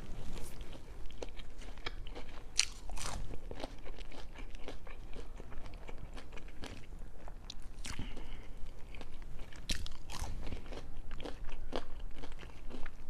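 Close-up chewing and crunching of food: bites of a vegan patty sandwich on a soft bun and baked crinkle-cut fries, with irregular crisp crackles and wet mouth sounds.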